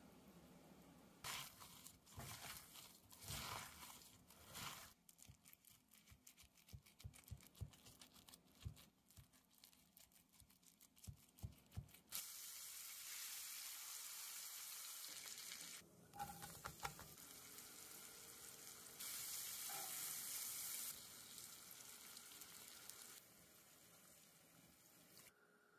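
Gloved hands mixing raw ground beef in a glass bowl: quiet, irregular squishes and clicks for about the first twelve seconds. Then a steady sizzle of food frying in a cast-iron skillet, broken by cuts into several short takes.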